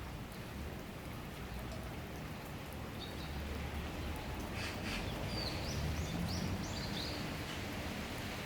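Steady summer rain shower falling, with a few short bird chirps about three seconds in and again in the second half.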